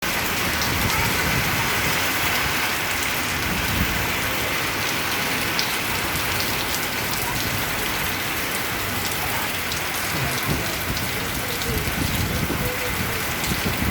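Rain falling steadily: an even hiss with scattered sharp ticks of individual drops.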